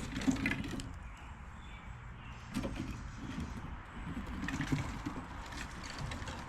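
Squirrels and chipmunks scurrying and nibbling at food: three bursts of quick scratchy clicks and light knocks, over a low steady rumble.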